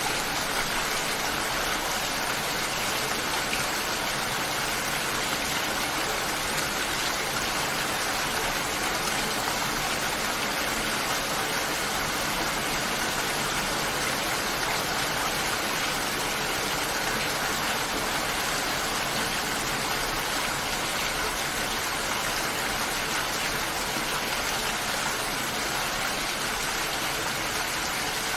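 Rain falling steadily, an even hiss of water with no let-up.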